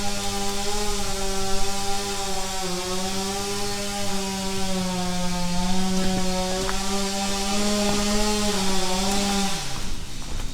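Chainsaw running at high, steady revs, its pitch wavering slightly. Near the end the throttle is let off and the pitch drops as the engine slows.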